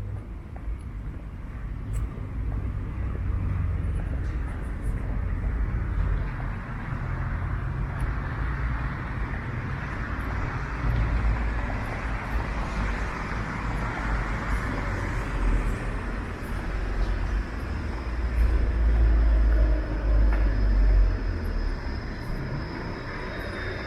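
Street traffic, cars passing with a swell of tyre noise in the middle, over a low uneven rumble. A faint steady high tone comes in near the end.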